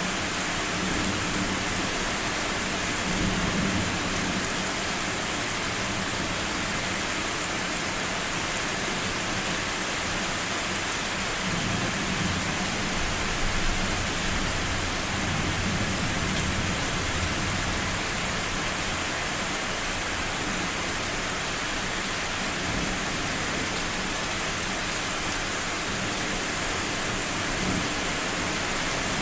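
Steady rain falling, with low rolling thunder rumbling in the background several times: a swell a few seconds in, a longer stretch in the middle, and another near the end.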